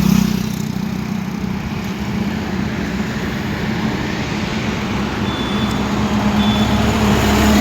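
Highway traffic: steady road and engine rumble with a low drone that grows louder toward the end as a heavy truck draws near.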